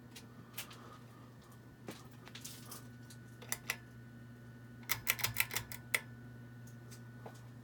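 Hampton Bay Huntington II ceiling fan motor humming steadily, with scattered sharp clicks over it: two about three and a half seconds in, then a quick run of about six around the five-second mark.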